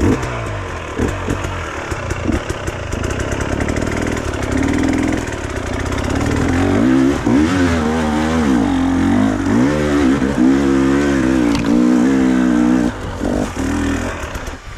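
Off-road motorcycle engine running and revving up and down repeatedly as it climbs a forest trail, easing off near the end.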